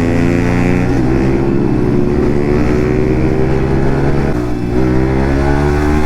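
Yamaha MT-15's single-cylinder engine running through an aftermarket Akrapovic exhaust while riding at steady throttle. Its pitch shifts slightly about four seconds in.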